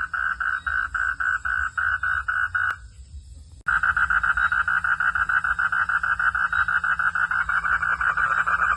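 A frog calling in steady rapid pulses, about five a second. The calling stops abruptly about three seconds in, then about a second later starts again just as suddenly, faster and denser.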